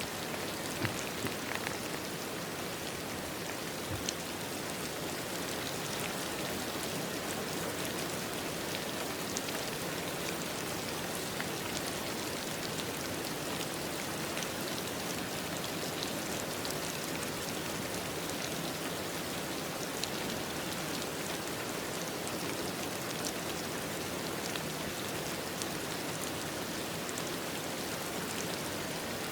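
Steady rain falling, with individual drops tapping through it and a few louder drop hits in the first seconds.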